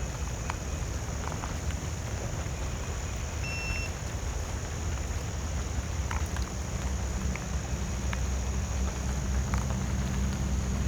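Ninebot F2 electric scooter riding along a paved trail: a steady low rumble of tyres and wind on the microphone, growing fuller about halfway through, with a few light ticks from bumps. A constant high insect drone runs underneath.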